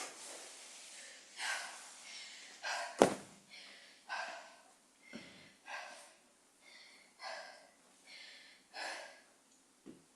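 A person breathing hard, taking loud breaths in and out about every one and a half seconds while recovering from a set of walking lunges. One sharp knock about three seconds in.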